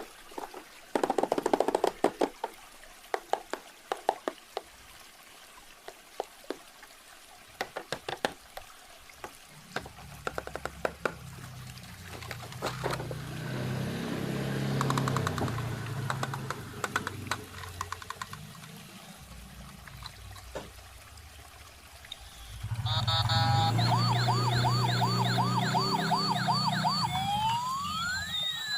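Packaging crinkles and plastic clicks of a toy being unboxed over a steady water sound. About two-thirds of the way in, a toy RC ambulance's electronic siren switches on, with a fast warbling yelp that turns into slow rising and falling wails near the end.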